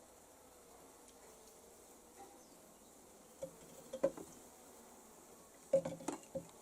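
Honeybees buzzing faintly, a thin wavering hum, with a few short knocks and clicks about halfway through and again near the end.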